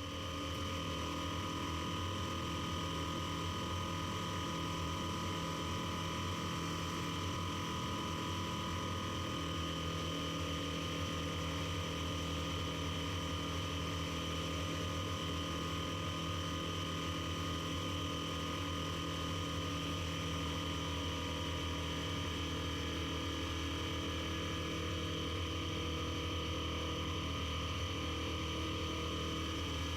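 Piper Super Cub's engine and propeller droning steadily in cruise, heard from inside the cockpit.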